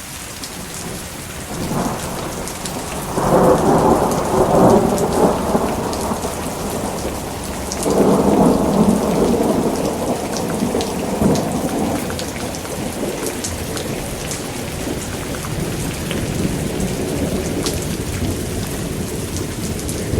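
Thunderstorm: steady heavy rain with two long rolls of thunder, the first building about two seconds in, the second starting about eight seconds in and fading away over several seconds.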